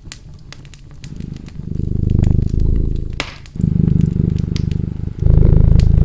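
A cat purring close up, in swells that rise and fall with each breath about every one and a half to two seconds, over a wood fire crackling with scattered sharp pops.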